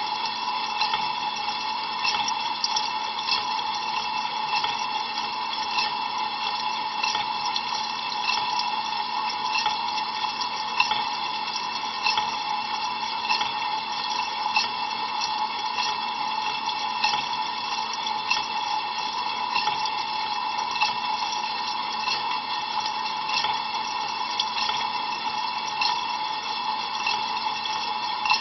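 Ariston LV 46 A IX dishwasher rinsing with cold water, heard from inside the tub: a steady rush of spraying water with many small splashes and droplet hits against the interior.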